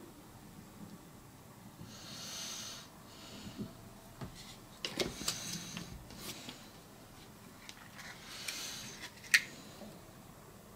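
Faint breathing through the nose close to the microphone, two soft breaths a few seconds apart, with scattered small clicks and taps from hands working the fiberglass patch on a plastic door trim panel.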